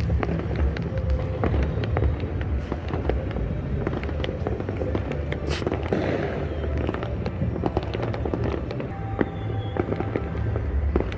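Many fireworks going off at once: a dense, continuous run of sharp cracks and bangs over a deep rumbling background, with music playing underneath.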